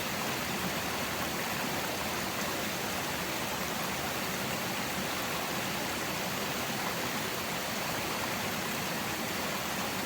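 Steady, even rushing of water, with no breaks or separate drops standing out.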